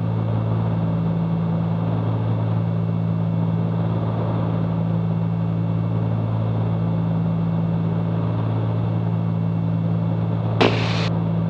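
Cessna 310Q's twin piston engines and propellers droning steadily in flight, heard from inside the cabin, with a low hum of steady tones. About ten and a half seconds in, a brief hiss cuts in and stops suddenly.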